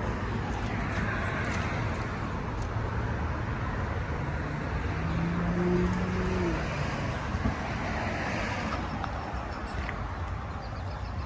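Steady road traffic noise from a busy road, with one vehicle passing about halfway through, its engine note holding and then dropping as it goes by.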